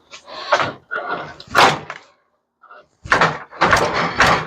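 Irregular clanks, bangs and scrapes of sheet metal and parts being pulled and knocked about as scrap appliances are taken apart by hand. There is a sharp crack about a second and a half in, and a denser run of clattering near the end.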